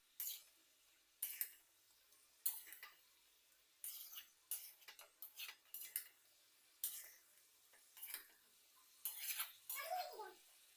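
A metal spoon scraping and knocking against a cooking pot as a masala is stirred, about a dozen separate irregular strokes.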